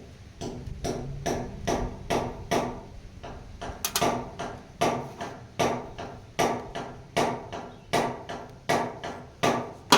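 Hammer striking metal again and again, each blow ringing briefly. There is a quick run of about six strikes, a short pause, then a steady beat of roughly one blow every 0.8 seconds.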